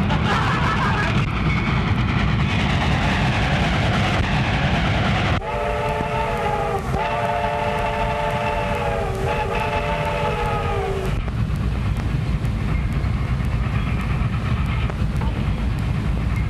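Train rumbling along, with a multi-note train whistle blown three times in a row, the middle blast the longest, each sagging in pitch as it ends.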